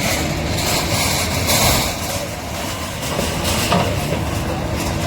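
A heavy engine running steadily with a low rumble, with short bursts of harsh noise about one and a half and three and a half seconds in.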